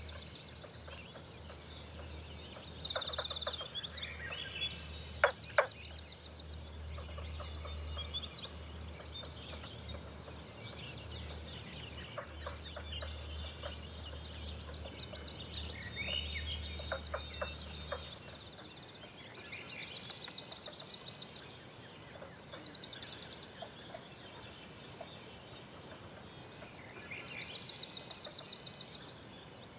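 Songbirds singing at dawn, with high, rapid trills of a second or two repeating every few seconds among scattered shorter calls. A couple of sharp taps come about five seconds in, and a low hum underneath stops about two-thirds of the way through.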